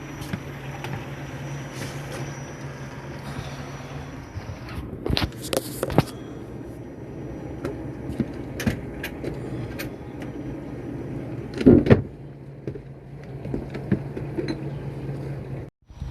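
A motor runs with a steady low hum, broken by several sharp knocks and clanks. The loudest knock comes near twelve seconds in, and the sound cuts off suddenly just before the end.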